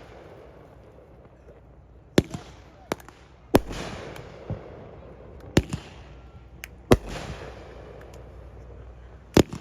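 Aerial fireworks exploding: about nine sharp bangs at irregular intervals, the loudest about three and a half seconds in, about seven seconds in, and as a quick double near the end, each trailing off in an echoing rumble.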